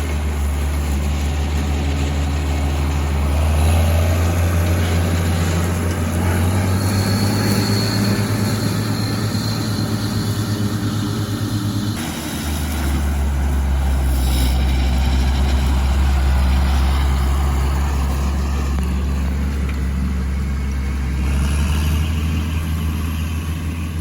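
A motor vehicle driving, with a steady low engine rumble. The rumble dips briefly about halfway through, then carries on.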